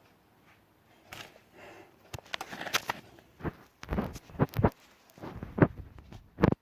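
Footsteps with rustling and thumps, irregular and growing louder, with several heavy low thuds in the second half; the sound cuts off abruptly at the end.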